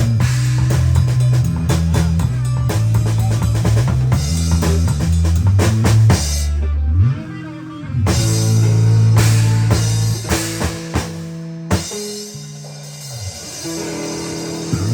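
A band playing: drum kit with kick and snare under a bass line and guitar. The drums pause briefly about halfway through.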